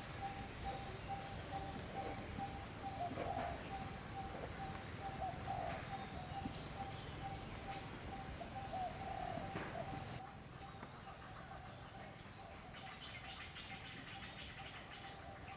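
Birds calling: a quick, steady run of repeated notes on one pitch, with higher chirps over it. It cuts off abruptly about ten seconds in, leaving a fainter, steady high hiss.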